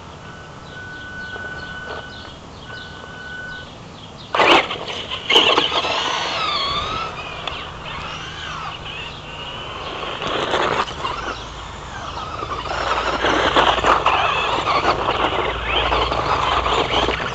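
Traxxas Slash RC truck driving: a sharp knock about four seconds in, then its electric motor whine gliding up and down in pitch, followed by a long stretch of louder, rough driving noise.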